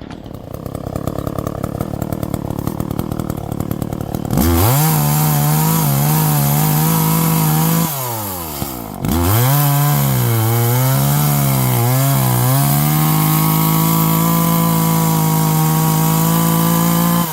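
Chainsaw idling, then opened up to full throttle about four seconds in. It drops back briefly and revs again, its pitch sagging and recovering as under load in a cut, then holds high and steady before easing off at the end.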